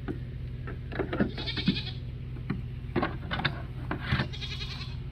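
Dairy goats bleating: two short quavering bleats, about a second in and again near the end, among a few knocks and clicks.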